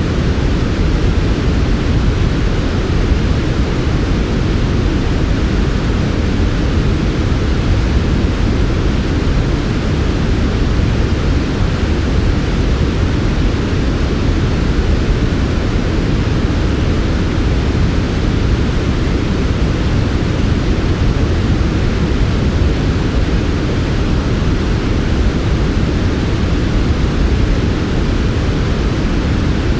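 Steady synthetic white noise for sleep, an even hiss with no rhythm or events, its energy weighted toward the low end and its treble softened.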